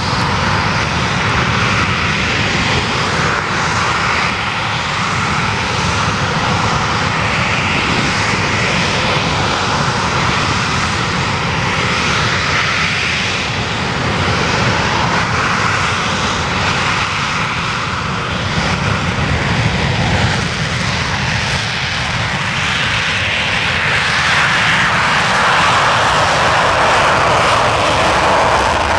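Panavia Tornado's twin RB199 turbofan engines running loud in full reheat (afterburner) for take-off, a continuous jet noise whose tone slowly shifts and sweeps in the last few seconds as the aircraft moves.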